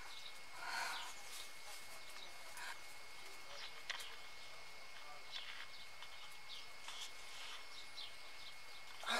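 Quiet outdoor ambience in a bamboo thicket: scattered short bird chirps over a low background hiss, with one sharp click about four seconds in.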